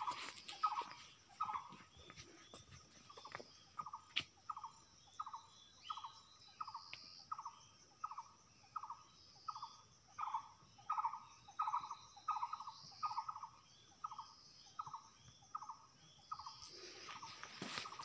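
A bird repeating one short call over and over, about twice a second, with fainter, higher chirps of other birds around it. A louder wash of noise comes in near the end.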